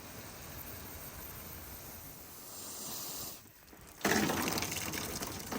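Faint steady hiss, then, after a brief drop about three and a half seconds in, louder rushing of water running into a livestock water tank as it is being filled.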